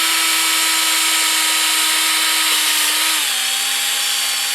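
Electric power drill running steadily under load as a drill bit bores out a broken bolt in an outboard engine's bolt hole. Its motor whine drops slightly in pitch about three seconds in as the bit bites harder.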